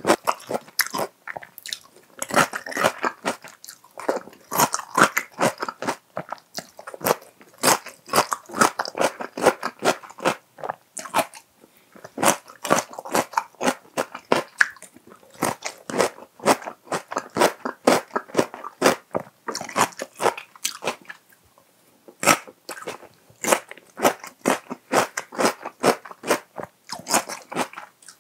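Close-miked crunching and chewing of spicy raw cucumber salad (oi-muchim): repeated bouts of crisp crunches as each bite is chewed, with short pauses between bites.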